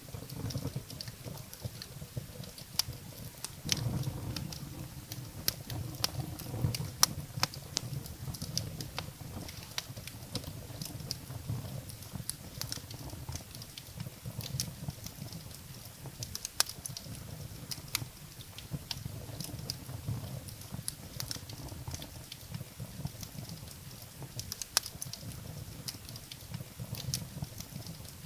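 Wood fire burning in a fireplace: irregular sharp crackles and pops of firewood over a low, steady rumble of flame.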